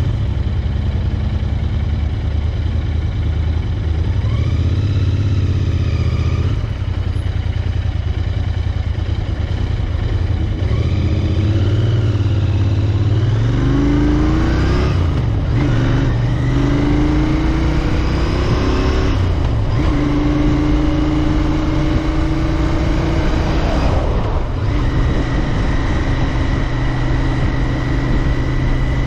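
Royal Enfield Interceptor 650 parallel-twin engine running under way, heard from a bike-mounted camera. It runs fairly steadily at first, then about halfway through it revs up and shifts up through the gears three times, settling into a steady cruise for the last few seconds.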